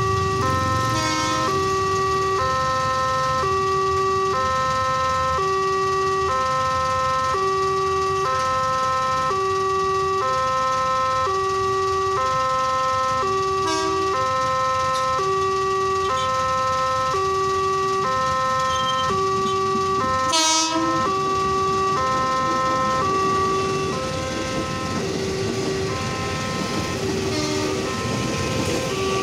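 Railway level-crossing warning alarm sounding a steady two-tone signal, the two notes alternating about once a second, which warns that a train is approaching. About twenty seconds in, a brief loud wavering blast cuts across it.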